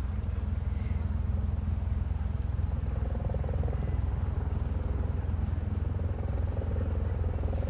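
A steady low rumble runs on without a break, with a faint higher hum coming and going around the middle.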